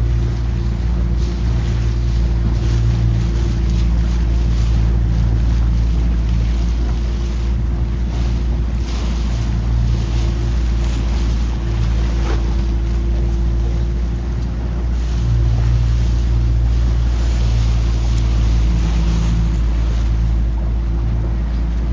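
Wind buffeting the microphone and water rushing past a boat at sea, over a steady low hum.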